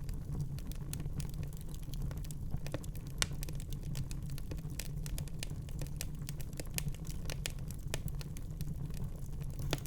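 Wood fire burning in a fireplace: a steady low rumble of flames with irregular sharp crackles and pops, one louder pop about three seconds in.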